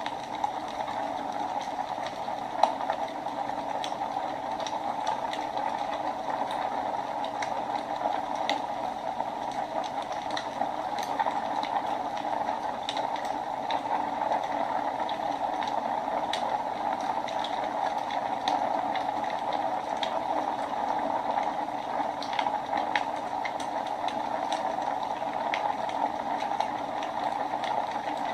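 Wood fire burning in a fireplace: a steady hiss with frequent sharp crackles and pops at irregular times, one louder pop about two and a half seconds in.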